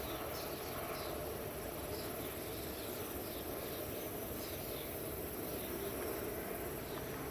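Crickets chirping outdoors: short, high chirps repeating unevenly, several a second, over a steady low background noise.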